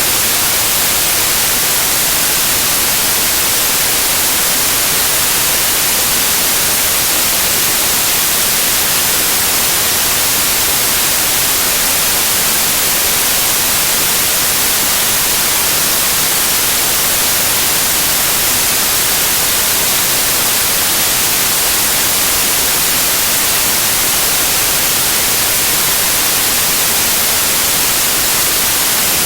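Loud, steady white noise: an even hiss with no change or interruption.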